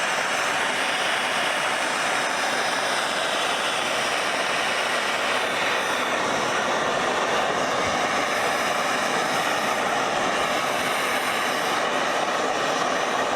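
Handheld gas torch burning with a steady, even hiss, heating the steel Acme screw of a small bench vise.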